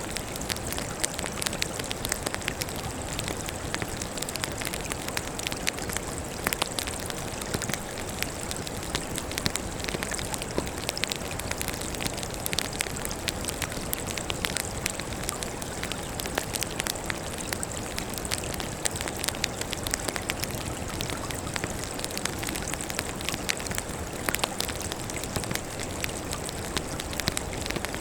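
Wood fire burning with steady crackling: many sharp snaps and pops over a constant hiss.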